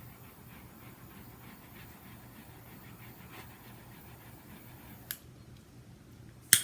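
Faint rhythmic panting over a steady low hum, with a light click about five seconds in and a sharp, louder click near the end.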